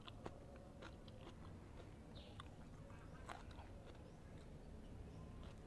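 Faint chewing of rice and fried chicken, with a few soft, irregular mouth clicks.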